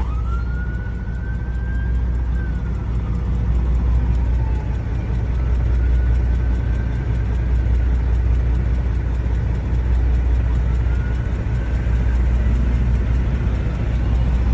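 Semi truck's diesel engine idling with a steady low rumble, heard from inside the cab. A faint whine rises, holds and falls away three times over it.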